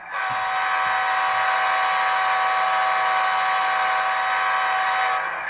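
Sound-decoder air horn of an HO scale ET44AC model locomotive (ESU LokSound) played through the model's small speaker: one long steady blast of several tones at once, held for about five seconds and then cut off.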